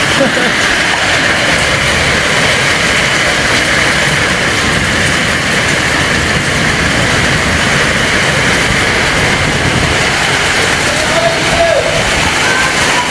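Strong storm wind of an aandhi (dust storm) blowing steadily: a loud, even rush of noise with no pauses.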